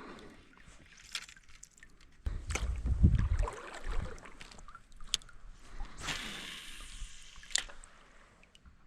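Handling noises in a kayak: knocks and clicks against the hull and a loud low rumble of rubbing about two seconds in, then a brief wash of water sloshing near the end.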